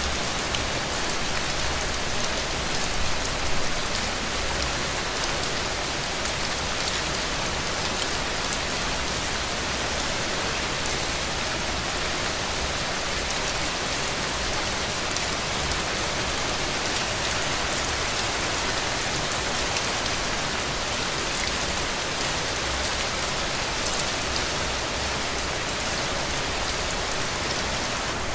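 Heavy rain falling steadily, a dense even hiss of drops with individual patters on top.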